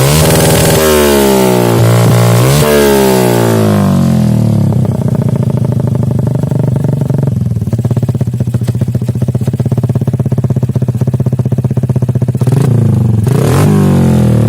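Yamaha Jupiter MX's single-cylinder four-stroke engine through an RCB Racing aftermarket exhaust. It is blipped several times in the first few seconds, settles to a steady pulsing idle, then is revved again near the end.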